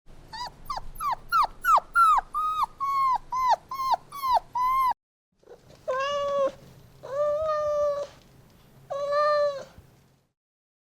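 A young animal's cries: about a dozen short, high calls in quick succession, each dropping in pitch. After a short break come three longer, lower calls held at an even pitch.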